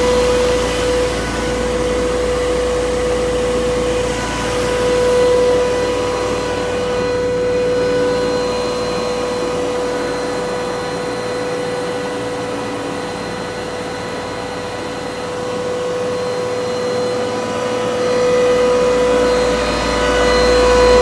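York YCAV air-cooled screw chiller running: a steady machine whine over a rumbling hum.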